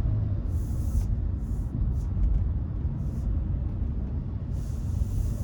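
Steady low road and engine rumble inside a small car's cabin while driving, with a few brief faint hissing swishes.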